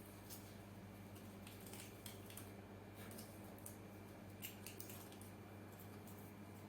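Faint scattered clicks from scooter wiring connectors and small parts being handled, over a steady low hum.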